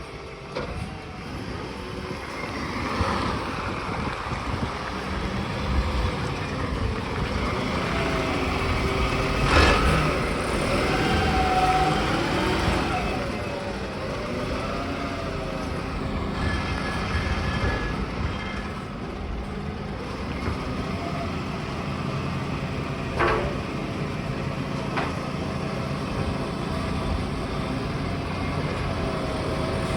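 Garbage truck running, with a wavering whine over the engine noise and a loud crash about ten seconds in, then two short knocks later on.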